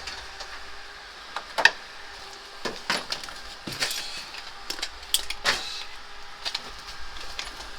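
Irregular metallic clinks, knocks and scrapes from hand tools and parts being handled on an air conditioner unit, with the loudest clank about a second and a half in. A faint steady hum runs underneath.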